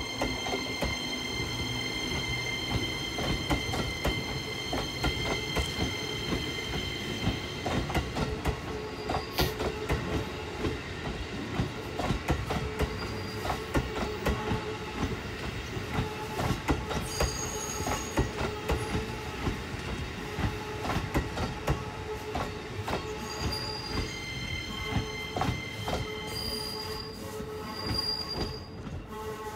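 Shin-Keisei N800-series electric train set N838F moving over depot track: its wheels click over rail joints and points, with a steady high whine in the first few seconds and thin squealing tones from the wheels that come and go later on.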